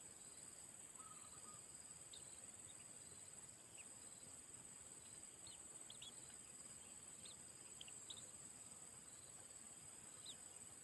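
Steady, faint, high-pitched drone of insects such as crickets, with a handful of short, faint bird chirps scattered through it.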